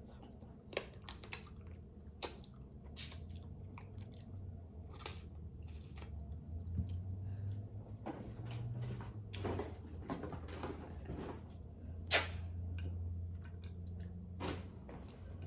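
A person chewing king crab close to the microphone, with a string of short sharp clicks and cracks from the crab shell, the loudest about twelve seconds in.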